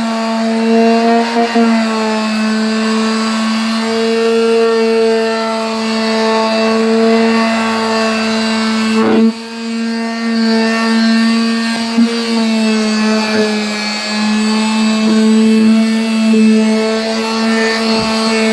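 Electric polisher buffing wax off a car's paint, its motor whining steadily and wavering slightly in pitch. There is a brief dip with a click about nine seconds in.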